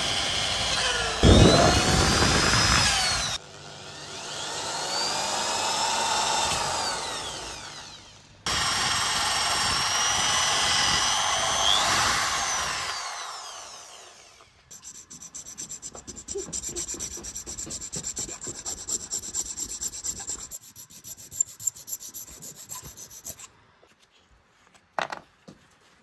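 An electric power tool runs in three bursts, its motor pitch rising and falling as it spins up and winds down. Then come quick, even rubbing or scraping strokes, and a few knocks near the end.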